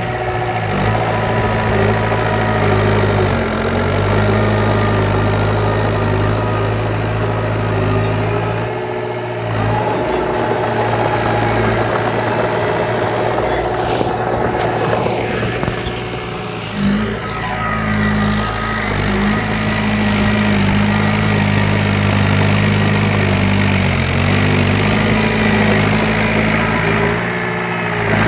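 Heavy earthmoving machinery's diesel engine running steadily, its note shifting a few times as the machine works, with short dips about a third and two-thirds of the way through.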